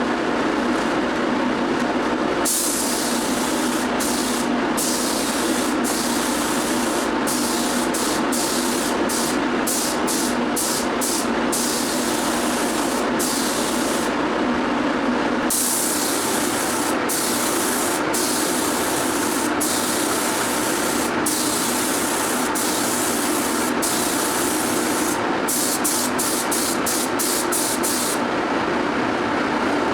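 Paint spray gun hissing in repeated bursts of a second or two, starting and stopping abruptly as the trigger is pulled and let go, over a steady mechanical drone.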